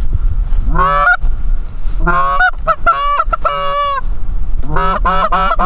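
Canada goose honking, loud and close: four quick runs of two-note honks that break from a low note up to a high one, over a steady low rumble.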